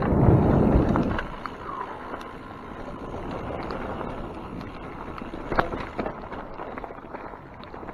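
Wind rushing over the microphone while riding a mountain bike. It is loudest for about the first second, then settles to a softer steady rush, with a few sharp clicks and knocks around five and a half to six seconds in.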